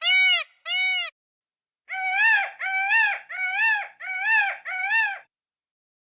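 A series of animal calls: two short, clear calls that rise and fall in pitch. After a brief pause come five more rising-and-falling calls, each about half a second long.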